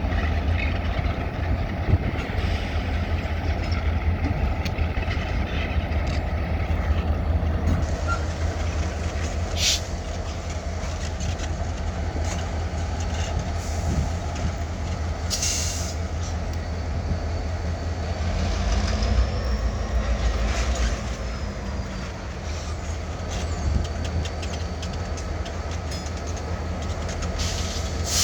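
EMD diesel switching locomotives running and moving railcars through a rail yard, a steady low rumble. Short hisses of air are heard about ten seconds in, again a few seconds later, and at the end.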